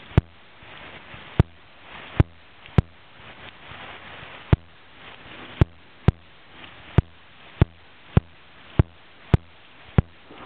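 About a dozen sharp, irregular clicks or taps, roughly one a second, over a steady hiss.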